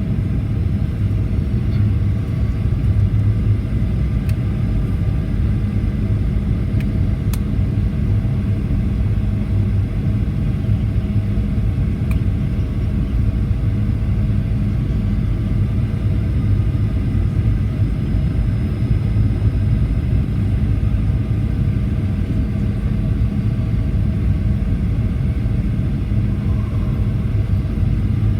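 Steady cabin drone inside a Boeing 737-800 airliner: the low rumble of its engines and airflow, with a few faint steady tones over it and one or two tiny clicks.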